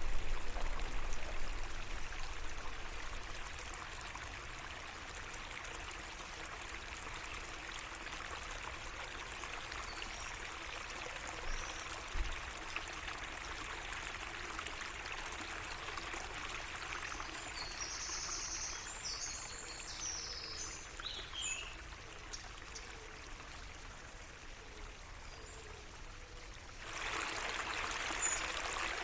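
A small garden stream trickling and flowing steadily, with a few short bird calls about two-thirds of the way through. The water grows louder near the end.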